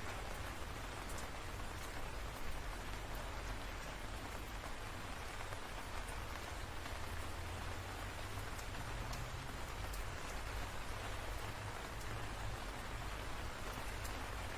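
Steady rain falling: an even hiss with a constant low rumble underneath and scattered sharp drop ticks.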